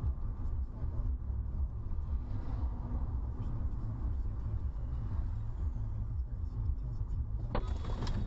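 Steady low road and engine rumble of a car driving, heard from inside the cabin, with a sudden sharp sound near the end.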